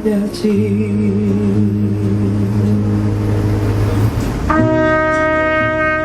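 Live band music: a singer holds the last note of a sung line over a low sustained bass note, then a brass section comes in with a loud held chord about four and a half seconds in.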